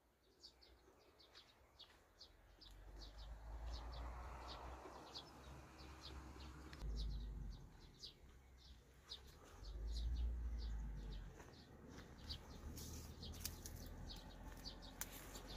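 A bird chirping over and over, short high chirps about twice a second, faint. Beneath it a low rumble swells about four seconds in and again around ten seconds in.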